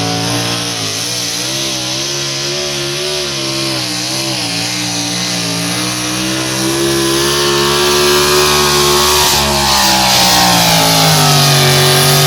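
Engine of a truck or tractor pulling the weight sled at full throttle. Its pitch wavers up and down under the load, then rises and gets louder about halfway through.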